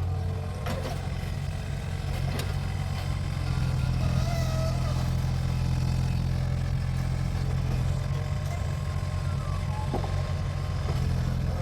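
Mini excavator's diesel engine running steadily under work, with a few short sharp knocks of the machine working.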